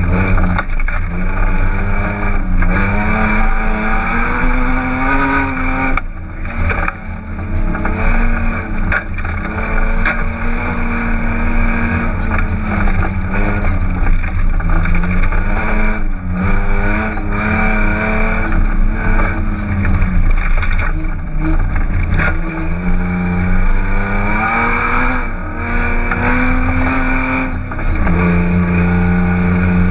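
BMW 328is's 2.8-litre straight-six engine at full throttle on a gravel rally stage, revs climbing and dropping back at each gear change, heard from inside the cabin. The exhaust is hanging loose at the midpipe, so the engine runs essentially unsilenced.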